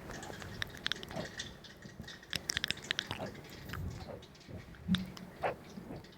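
Close-miked relaxation sounds: a scatter of small clicks and crackles, irregular and quiet, with a brief low sound about five seconds in.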